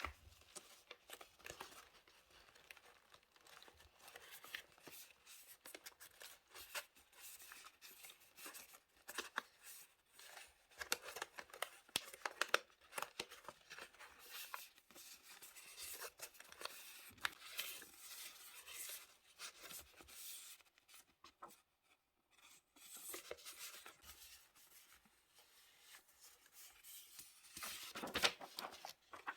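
Diary-decorating paper work: paper and stickers being handled, torn and cut, heard as short crisp rustles, tears and scissor snips in an irregular run, busiest near the end.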